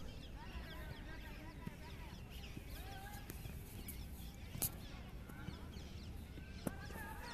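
Faint bird calls, many short chirps and calls overlapping. A single sharp click comes about four and a half seconds in, and a fainter one near the end.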